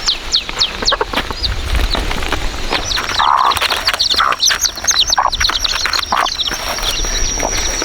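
Chicks peeping rapidly in quick falling chirps, with a hen clucking now and then. A steady high-pitched tone joins about three seconds in.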